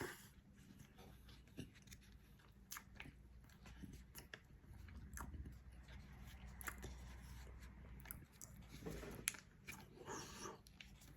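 Faint chewing and mouth sounds of someone eating a soft, sticky chocolate muffin, with scattered small clicks.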